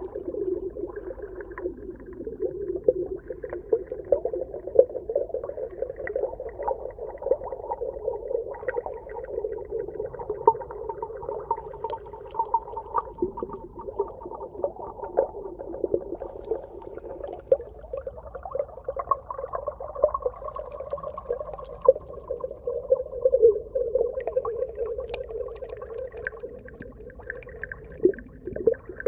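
Underwater sea ambience: a steady low drone with many small clicks and pops scattered through it.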